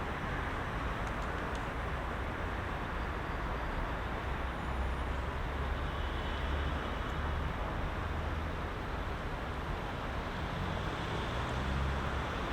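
Heavy rush-hour road traffic: a steady, dense rumble of car, bus and truck engines and tyres, with the low rumble swelling and easing as vehicles pass.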